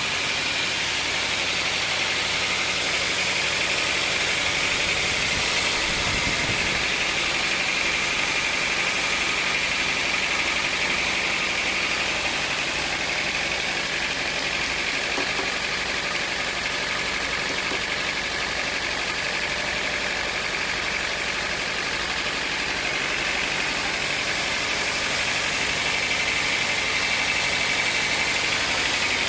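Sawmill machinery running steadily: a continuous mechanical drone with a low hum and a high hiss that grows louder and softer a couple of times.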